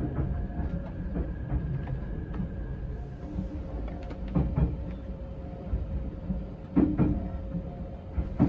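Odakyu Romancecar train running, heard from inside its front observation cabin. There is a steady low rumble with a faint steady hum, and scattered clicks and knocks from the wheels over rail joints; the loudest knock comes about seven seconds in.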